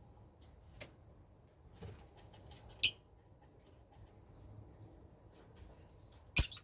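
Small pet birds squabbling: two sharp, high squeaks, one about three seconds in and another near the end, with faint scattered ticks and scratches between them.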